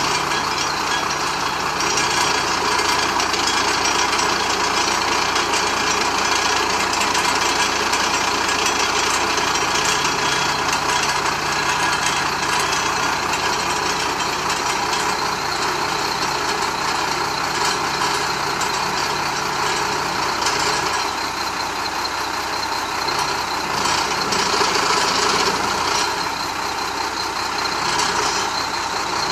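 Diesel engine of a Chenglong crane truck running steadily, with an even hum that holds its level throughout.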